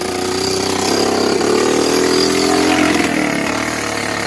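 Honda 300EX ATV's single-cylinder four-stroke engine running with its FMF exhaust pipe removed, revving up from about a second in and settling back down by about three seconds.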